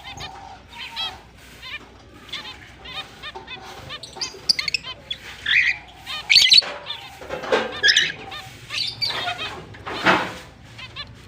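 Pet finches chirping rapidly and continuously, with a spell of louder calls in the middle.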